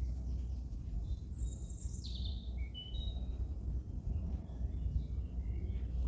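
A small songbird singing: a high note sliding down about a second and a half in, then a run of short chirps, with fainter chirps later. Under it is a steady low outdoor rumble.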